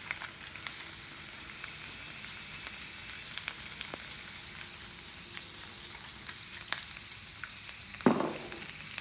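Thinly sliced potatoes frying in oil in a cast iron pan: a steady sizzle with scattered pops and crackles. A single knock sounds near the end.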